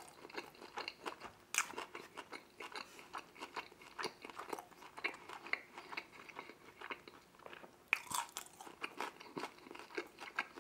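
A person chewing and crunching bites of deep-dish pepperoni pizza, a run of short, irregular mouth clicks and crunches, with a louder crunch about eight seconds in.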